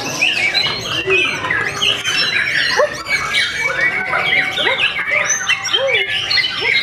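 White-rumped shama (murai batu) singing a rapid, varied song of whistles, upward and downward glides and chattering phrases, full of mimicked song material, with other song overlapping it.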